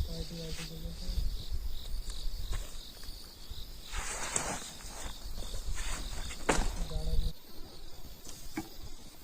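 Crickets chirping steadily over the low, even hum of a motorcycle engine, which cuts off suddenly about seven seconds in as the engine is switched off. A couple of brief rustling noises come in between.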